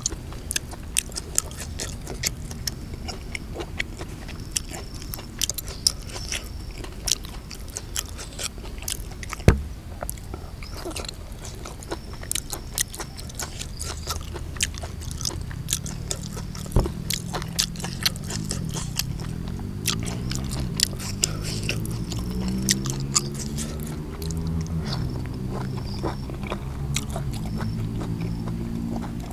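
A person chewing raw beef close to the microphone, with many sharp wet clicks and smacks of the mouth. In the second half a low, wavering pitched sound joins in under the chewing.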